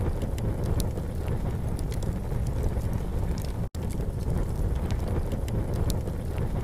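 Campfire crackling, with scattered sharp pops and snaps over a steady low rumble. The sound drops out for an instant a little past halfway.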